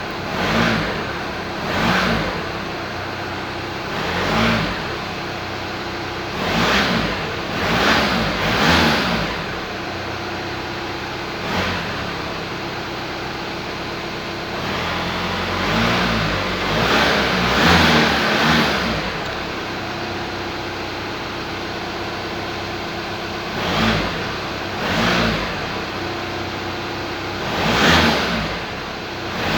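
Car engine idling and being revved in short throttle blips, a dozen or so rises and falls with stretches of idle between them, some coming in quick pairs.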